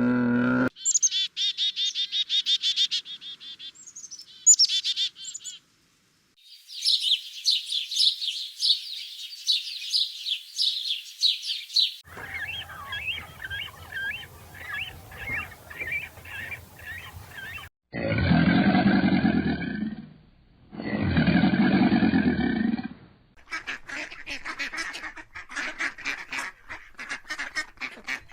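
A run of different animal calls, one after another, mostly high, rapid bird chirping and twittering. About two-thirds of the way in come two louder calls, each about two seconds long.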